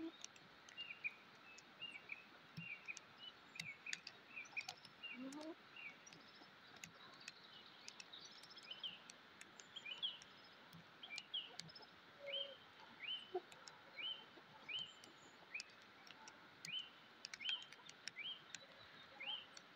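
Birds chirping faintly: a long series of short, high calls, about one or two a second. A couple of lower rising calls come near the start and again about five seconds in.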